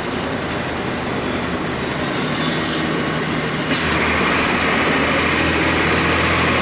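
Blue Bird CS transit bus's Cummins ISC diesel engine running with its ride noise. About two-thirds of the way in there is a short hiss of air, and the engine gets louder and deeper as it pulls harder.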